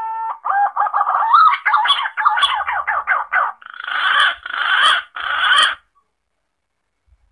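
Green pigeon (punai) calls played as a hunting lure: the tail of a rising whistled note, then a quick run of warbling notes, and three harsher, rougher calls before it stops.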